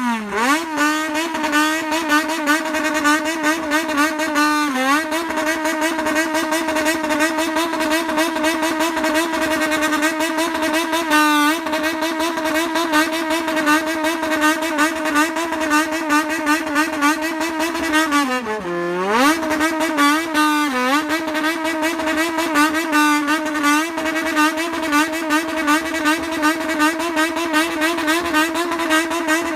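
Motorcycle engine held at high revs, the throttle worked in a quick rhythm so the exhaust note pulses (the 'bomba' rhythm). The revs dip briefly a few times and, past the middle, fall sharply and climb straight back.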